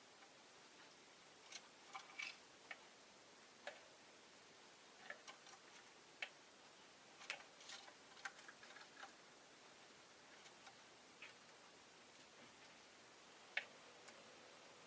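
Faint, irregular short clicks and taps from a pet rosy-faced lovebird and its cage, scattered over a low hiss, with one sharper tap near the end.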